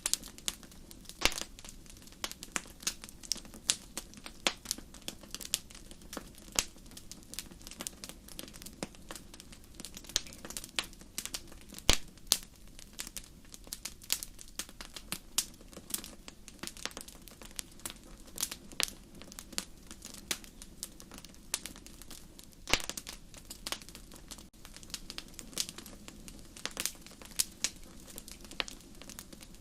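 Wood fire burning in a fireplace, crackling: irregular sharp pops and snaps over a low steady rumble of the flames, with one louder pop about twelve seconds in.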